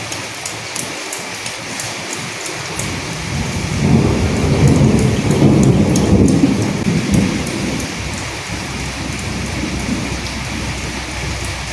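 Steady heavy rain, with a low rumble of thunder that swells about three seconds in and dies away by about eight seconds.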